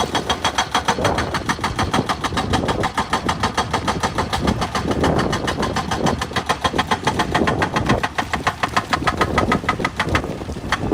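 An engine running with a rapid, even pounding of about eight to nine beats a second, easing off near the end.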